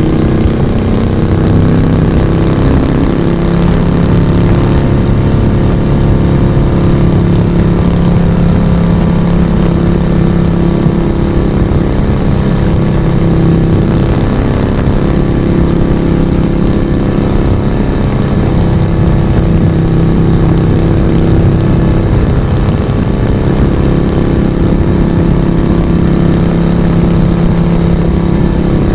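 Moto Guzzi V35's vintage V-twin engine and raw exhaust running steadily on the move, heard from the rider's seat, its note easing and picking up again a few times.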